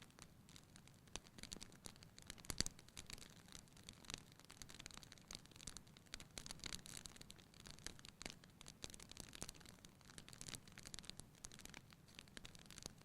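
Wood fire burning in a fireplace, crackling softly with irregular small pops and snaps and one sharper pop about two and a half seconds in.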